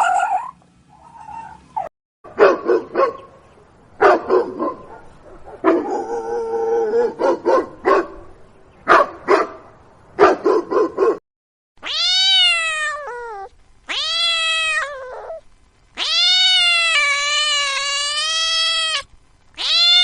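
Dog barking in quick short bursts for several seconds, then a domestic cat meowing three times, the last meow long and drawn out.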